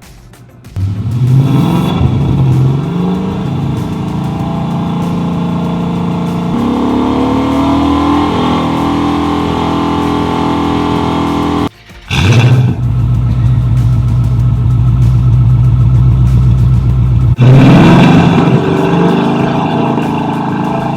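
Ford Mustang V8 exhaust through BBK Varitune axle-back mufflers. The engine revs up about a second in, runs on with its pitch slowly climbing, and cuts off abruptly before 12 seconds. It then revs again and holds steady, with another rev near the end.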